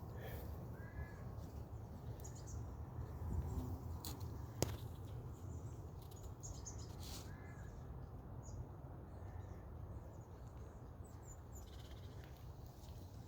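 Faint outdoor ambience with a steady low rumble and a few scattered, short bird calls. A sharp click about four and a half seconds in is the loudest sound.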